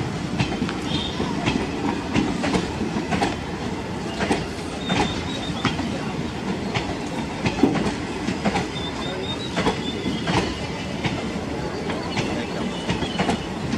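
Passenger coaches of an express train rolling past, their wheels clacking over rail joints, with a thin high wheel squeal a couple of times.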